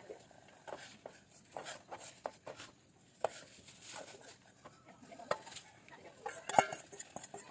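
Irregular light clicks and taps of food preparation and utensils being handled, with a louder clatter about six and a half seconds in.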